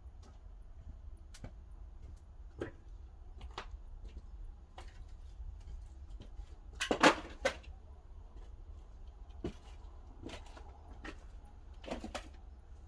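Pine firewood burning in a wood-fired kiln's firebox, giving scattered sharp pops and cracks, with a louder cluster of two or three cracks about seven seconds in, over a steady low rumble.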